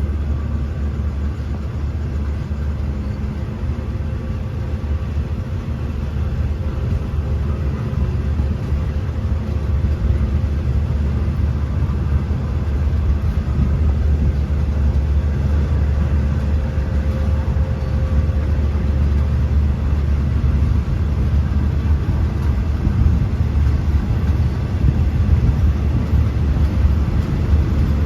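Diesel-hauled passenger train pulling out of a station: a steady low rumble of the locomotive and rolling train that grows gradually louder as it gets under way.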